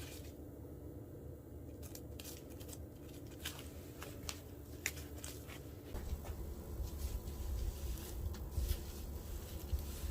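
Small wood fire in a nature stove crackling with irregular sharp snaps, over a low rumble that grows louder about six seconds in.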